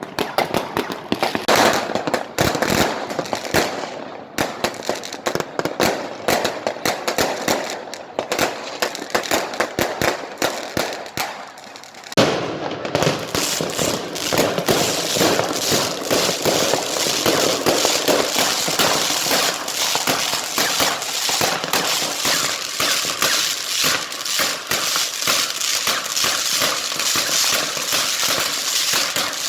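Fireworks and firecrackers going off in rapid succession, many sharp bangs close together. About twelve seconds in they thicken into an unbroken crackle.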